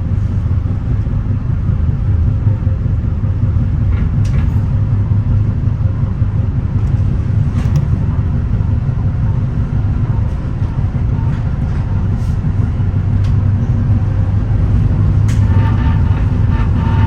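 Steady low rumble of a moving Metra bi-level commuter train, heard from inside the front cab car, with a few faint clicks scattered through it.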